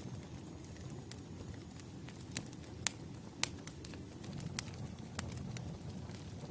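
Campfire crackling: irregular sharp pops and snaps over a soft, low rustle of burning wood.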